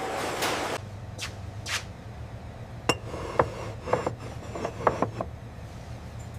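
Noisy rumble cutting off abruptly under a second in, followed by a steady low hum with a dozen or so scattered sharp clicks and clinks, several close together around the middle.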